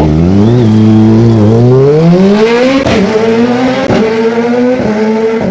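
Kawasaki ZX-25R's 249 cc inline-four, its exhaust open with the dB killer removed, accelerating hard. The pitch climbs steadily for about two and a half seconds, then drops and climbs again about three times, like upshifts through the gears.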